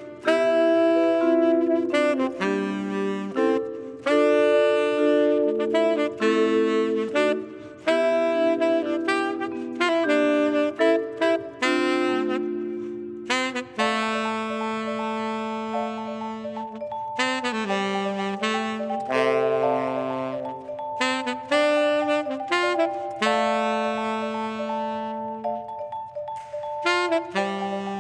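Instrumental jazz with a saxophone playing a melodic line of held notes over sustained chords.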